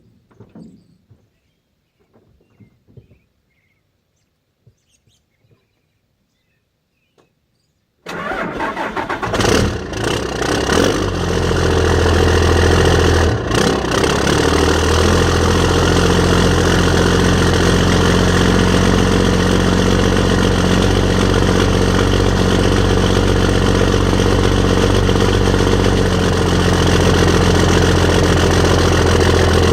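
Cummins turbo diesel engine in a 1994 Chevy 3500, cold-started at about −7 °C without its block heater: a few faint clicks, then it cranks and fires about eight seconds in, runs unevenly for a few seconds and settles into a steady idle.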